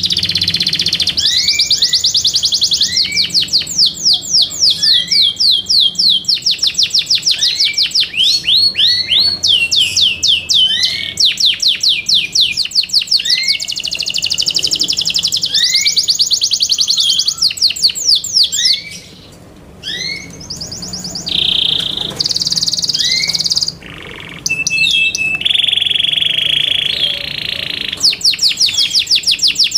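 Yorkshire canary singing: long runs of fast rolling trills, each run broken by a short rising chirp. After a brief pause about two-thirds through, it gives a couple of steady held notes before the trills resume.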